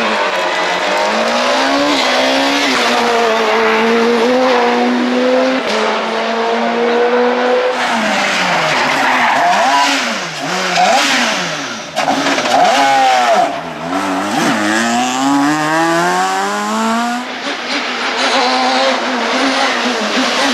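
Super 2000 rally car's naturally aspirated four-cylinder engine at full stage pace: it revs up and holds high, then the revs swing quickly up and down through downshifts and throttle blips at a corner, before it pulls hard and climbs through the revs again.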